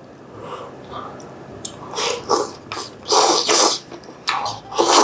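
Close-miked eating of crunchy bean sprout, fish cake and glass noodle japchae: a string of short, hissing mouth-noise bursts, starting about two seconds in and strongest around the middle and near the end.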